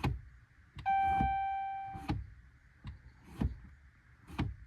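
Several dull knocks of the accelerator pedal being pushed to the floor in a pickup truck's cab, the oil-life reset sequence, with a single dashboard chime about a second in that rings and fades for about a second.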